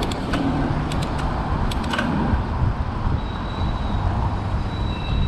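Steady rumble of road traffic and wind noise heard from a moving bicycle, with a few sharp clicks in the first two seconds.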